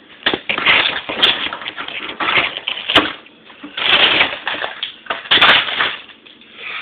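Food packages rustling and knocking in irregular noisy bursts as items are handled and put back into a refrigerator.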